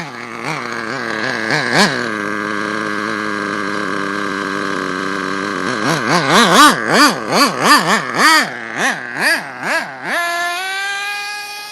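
HPI 4.1 two-stroke nitro engine in an RC truck revving: a couple of throttle blips, then held at high revs for a few seconds, then about nine quick blips in a row before dropping back to a steady idle near the end.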